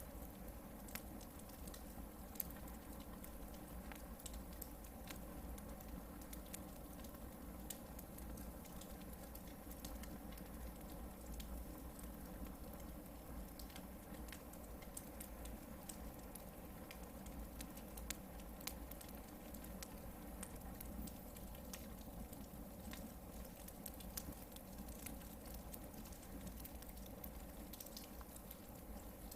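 Hardwood campfire burning, with scattered small crackles and pops over a steady low rumble.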